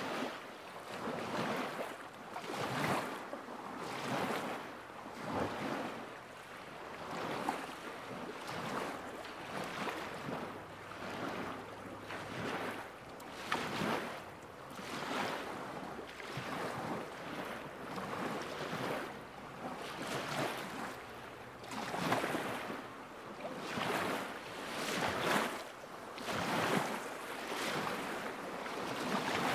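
Small lake waves lapping against the shore, a soft splash every second or so.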